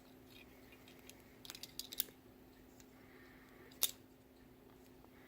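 Handling noise of small objects: a cluster of light clicks and taps about one and a half to two seconds in, then a single sharper click just before four seconds, over a faint steady hum.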